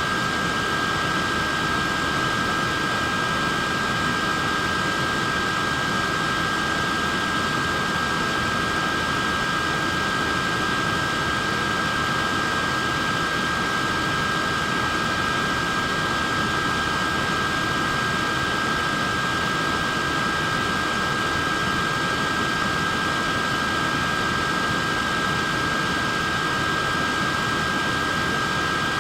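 Portable neck fan running steadily: a constant rush of air with a steady high-pitched whine from its small motor and blades.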